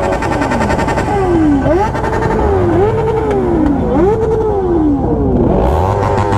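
Motorcycle engines revving again and again: the pitch jumps up and then falls away, about five times, with several engines overlapping over a steady low rumble.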